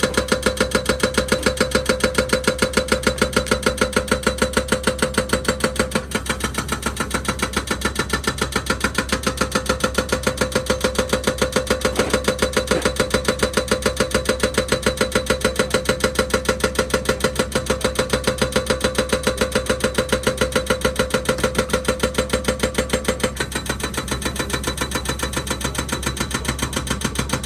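An engine running steadily with an even, pulsing beat of about five strokes a second and a steady hum, with brief drops in level a quarter of the way in and near the end.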